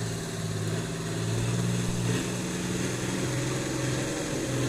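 Hino H06C naturally aspirated inline-six diesel engine of a cargo boat running steadily with a low, even drone.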